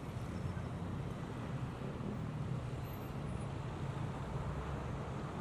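Steady low rumble of motor traffic and engines, with no distinct events.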